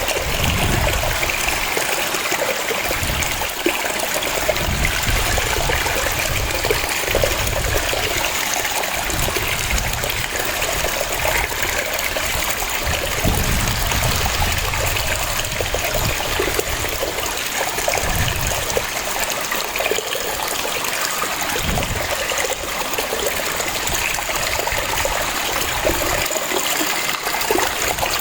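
Waterfall: water cascading and splashing in a steady rush, with a shifting low rumble.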